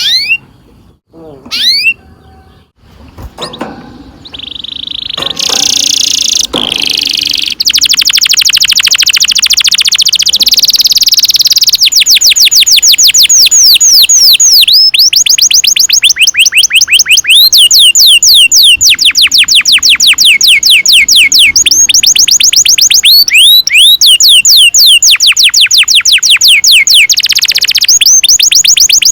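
Domestic canary singing: a few separate chirps and a buzzy phrase, then long fast rolls of quickly repeated, high falling notes, broken by brief pauses.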